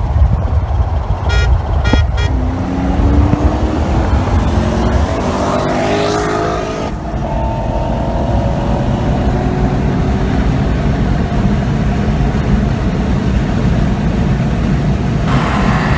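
Three quick car-horn honks, typical of a street roll-race start signal, then a car engine pulling hard under full throttle. Its pitch climbs steadily, breaks at a gear change about seven seconds in, and climbs again, over heavy wind and road rush.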